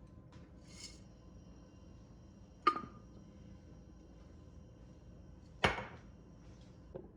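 Objects being set down or knocked together: two sharp clinks about three seconds apart, the first with a brief ring, then a fainter knock near the end.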